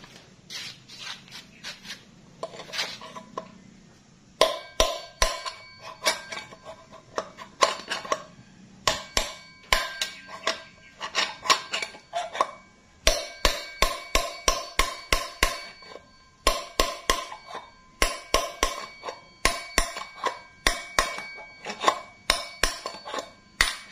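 Hammer blows driving a worn, rusted wheel bearing out of a motorcycle's rear hub: repeated sharp metal-on-metal strikes with a ringing tone, in quick runs of several blows with short pauses between, after a few lighter taps in the first four seconds.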